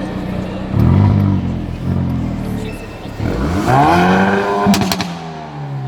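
Hyundai i30 N's 2.0-litre turbocharged four-cylinder being revved from idle: two short blips, then a longer rev that climbs and falls back. As the revs drop there is a quick cluster of sharp exhaust crackles.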